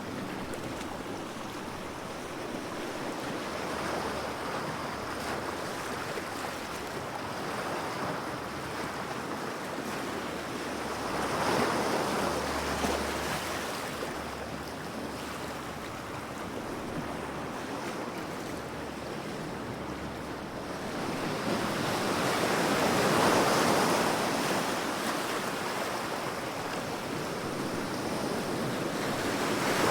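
Waves breaking in a steady rush of surf, swelling into louder surges about every ten seconds.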